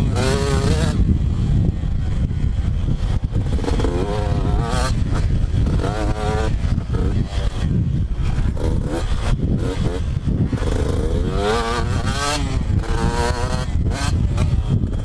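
Two-stroke motocross bike engine being ridden hard, revving up and falling back over and over, its pitch climbing and dropping every second or two, over a heavy low rumble.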